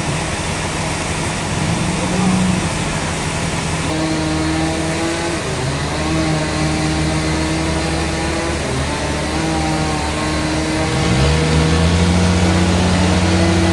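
Engine-driven sawmill machinery running under load: a steady engine hum over a hiss of cutting. About eleven seconds in, the pitch rises and holds higher.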